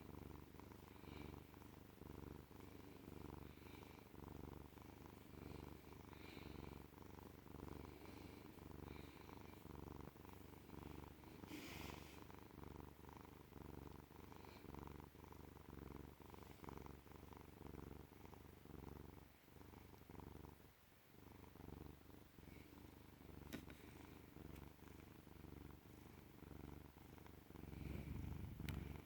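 Domestic cat purring close up: a soft, low, rhythmic rumble that swells and fades with each breath in and out, easing off briefly about two-thirds of the way through and growing louder near the end. The purring is a sign of a contented cat.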